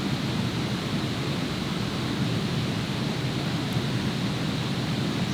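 Steady, even rush of water with no break or change.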